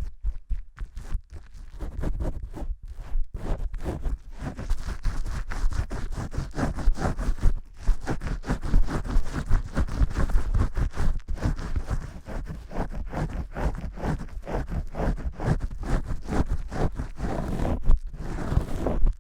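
Vigorous shampoo scrubbing close to the microphone: a dense, fast run of scratchy rubbing strokes, sparse for about the first second and then continuous.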